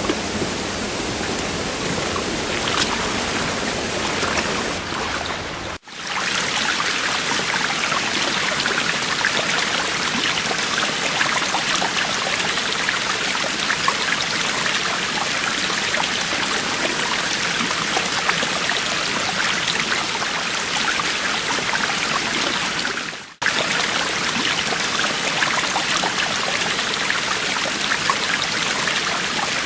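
Flowing stream water: steady rushing and splashing. It fades out briefly twice, about six seconds in and again near the end, and after the first gap it sounds brighter and more hissy.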